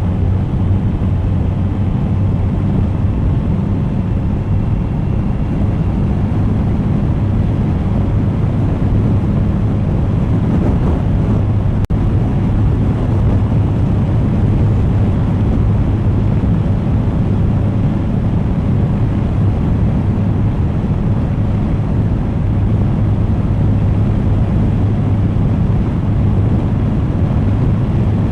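Suzuki GSX1250FA's inline-four engine running at a steady pace while riding, with wind rushing over the camera microphone. A single brief click about twelve seconds in.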